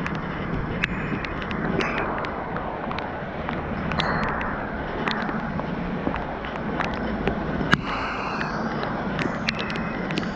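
Heavy rain pouring down steadily, with many sharp, irregular taps of single drops striking close to the microphone.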